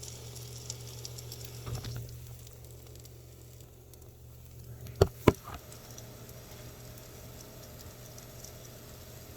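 An egg frying in hot oil in a pan, with a faint sizzle and crackle that is strongest in the first couple of seconds, over a steady low hum. Two sharp knocks sound about five seconds in.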